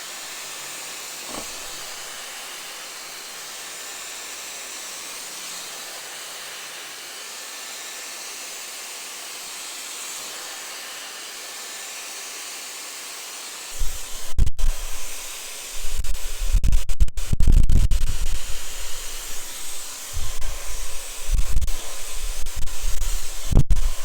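Dyson hair dryer blowing with a steady high hiss. From about 14 seconds in, loud, irregular low rumbling gusts come in as the airflow buffets the microphone.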